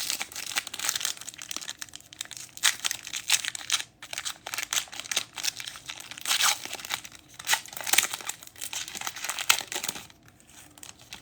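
Trading-card pack wrapper being torn open and crinkled by hand: a dense run of irregular crackling and tearing that thins out near the end.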